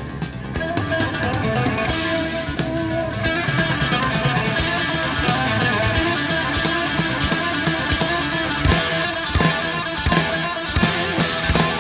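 Instrumental hard rock: electric guitar over bass and drum kit, without vocals, the drum hits growing more frequent in the second half.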